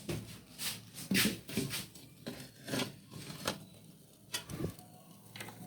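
About a dozen light, irregular knocks and taps, like small hard objects being handled, over a faint steady low hum.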